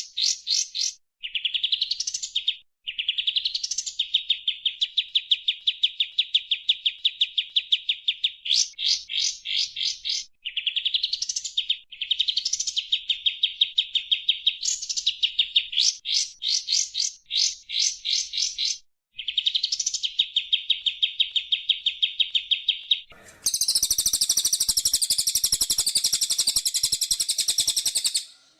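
Songbird song from a sekoci and white-rumped shama (murai batu) training recording: long runs of rapid, repeated chirps and trills with short pauses between phrases. About 23 seconds in, it switches to a denser, higher, buzzier call that runs until just before the end.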